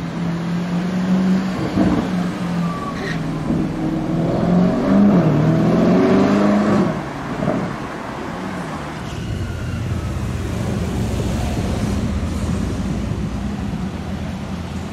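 Lamborghini Urus twin-turbo V8 accelerating away, its revs rising and falling through gear changes and loudest about halfway through. About nine seconds in the sound switches to a steadier, lower engine rumble from a Lamborghini Murciélago Roadster's V12 driving past.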